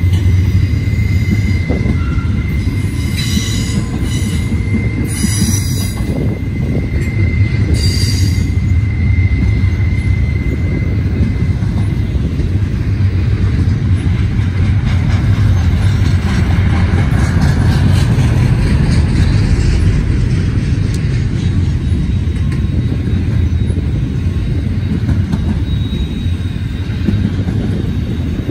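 Double-stack intermodal freight train's container cars rolling past on a sharp curve: a loud steady rumble of steel wheels on rail. Wheel flange squeal from the curve sounds as a thin high whine through about the first twelve seconds, with a few short shrill squeals in the first nine seconds.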